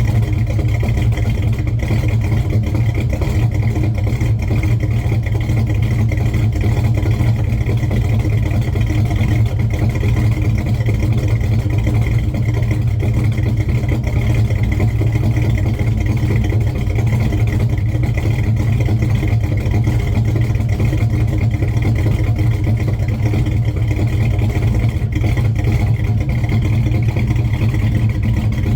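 1970 Chevelle's engine idling steadily as it warms up after a cold start.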